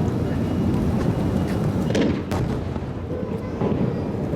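Fireworks going off: two sharp bangs close together about two seconds in, over a steady low rumble.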